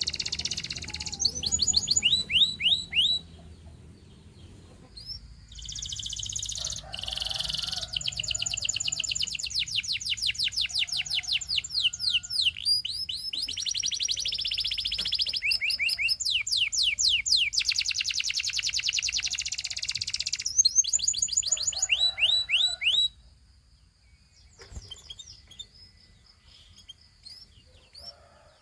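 Canary singing: fast trills of repeated falling whistled notes and rolling passages, with a short pause a few seconds in, then dropping to a few faint scattered chirps for the last several seconds.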